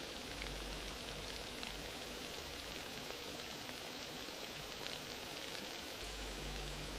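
Wood fire crackling: a steady hiss dotted with many small pops.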